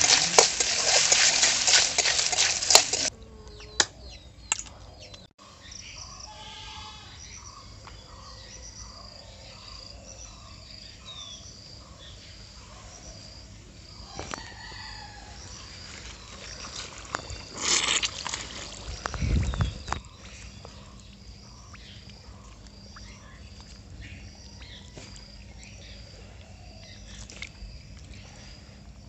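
Snails frying in a kadai, sizzling loudly while a metal spatula stirs them, for about the first three seconds. It then gives way to quieter outdoor background with birds chirping and chickens calling over and over.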